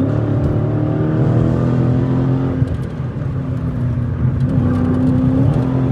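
Straight-piped Dodge Challenger Scat Pack's V8 accelerating. Its pitch climbs quickly right at the start, then holds at a steady drone with a couple of small dips, heard from inside the car with the windows up.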